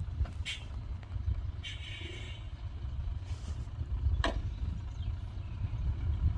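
Heavy diesel earthmoving machinery running with a steady low rumble, broken by two sharp knocks, the louder one a little past four seconds, and a short hiss about two seconds in.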